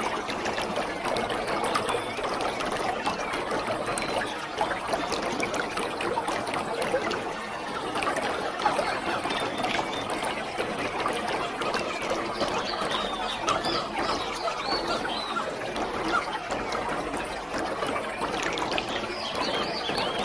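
Waterfall: a steady rush of falling, splashing water with a gurgling, bubbling texture.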